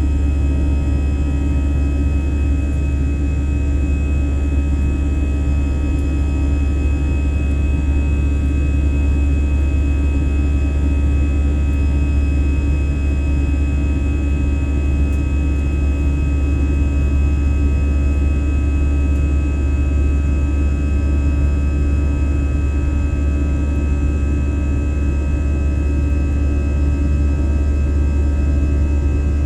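Steady cabin noise inside a passenger airliner: a loud, even low drone of engines and rushing air with several faint steady whining tones, unchanging throughout.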